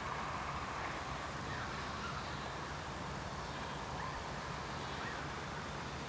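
Steady outdoor background noise with a few faint, short chirps; no firework bangs.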